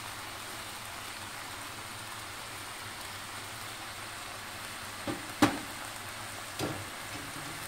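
Chicken pieces sizzling and bubbling in their juices and teriyaki sauce in a nonstick wok: a steady hiss. About five seconds in come three short knocks, the middle one loudest.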